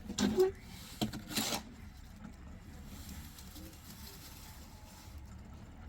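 Short scrapes and knocks from block-laying work: three brief scraping sounds in the first two seconds, then only a low steady background.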